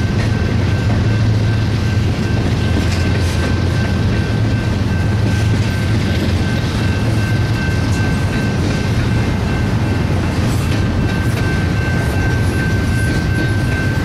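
BNSF double-stack intermodal freight train rolling past: a steady low rumble of the cars on the rails, with a thin, steady high-pitched tone over it.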